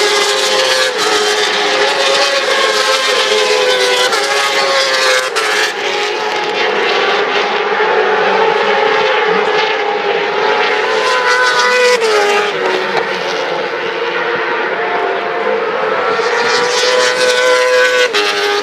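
MotoGP racing motorcycles running at high revs past the trackside, several engine notes overlapping and rising, with sharp drops in pitch a few times as riders shift gear or brake.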